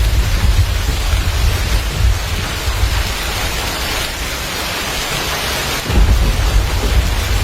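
Heavy rain in a thunderstorm, with a deep low rumble that eases off for a few seconds in the middle and comes back strongly near the end.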